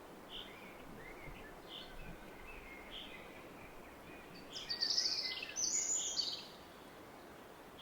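Small woodland birds calling over the steady noise of a distant river: a few short single chirps about a second apart, then a louder burst of high song from about five to six and a half seconds in.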